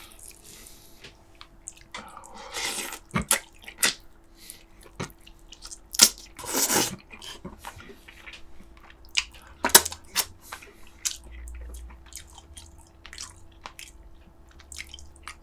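A person eating close to the microphone: chewing with scattered wet lip smacks and clicks, and a few short slurps, on braised pork ribs and kimchi.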